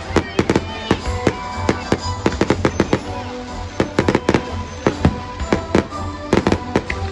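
Fireworks going off in rapid, irregular succession, several sharp bangs and crackles a second with no pause. Music plays underneath.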